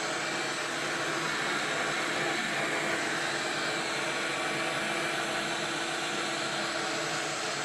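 Vacuum cleaner running steadily, sucking up debris left from sawing.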